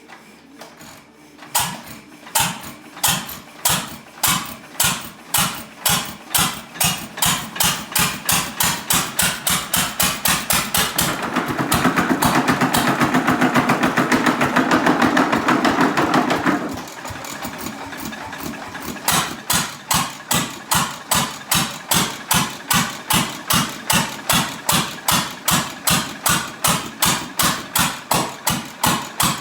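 6 hp International Harvester Type M hit-and-miss stationary engine running with a steady beat of exhaust pulses, about two to three a second, that comes in about a second and a half in. There is a louder, denser stretch of about five seconds in the middle before the beat settles back.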